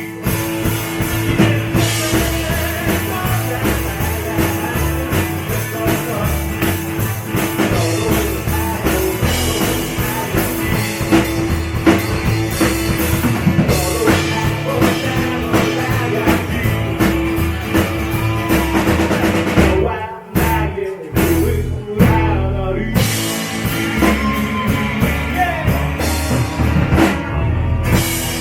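Rock band playing an instrumental passage with drum kit, electric guitar and bass, the band cutting out in a few sharp stops about two-thirds of the way through before carrying on.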